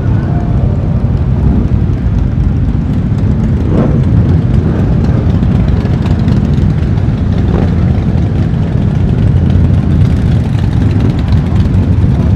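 Motorcycle engine running under way, with a heavy wind rumble on the microphone. The engine note rises briefly twice.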